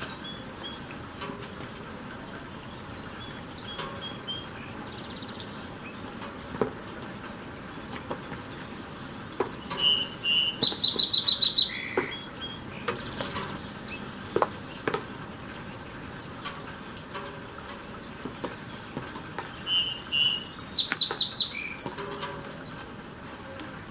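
Two bursts of rapid, stuttering high bird notes, about ten and twenty seconds in, each led by a short chip, over steady rain with scattered drips ticking.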